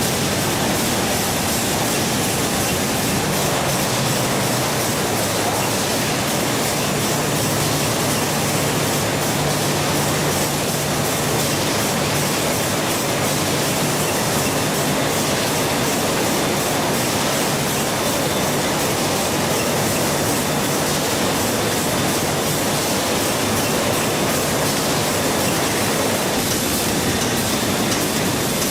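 Steady, loud mechanical din of processing-plant machinery, a dense even rattle and hiss that does not pause, with a faint low hum beneath it for a stretch in the middle.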